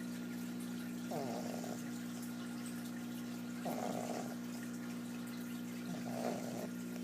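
Pug puppy snoring in its sleep: three short snores about two and a half seconds apart. A steady hum runs underneath.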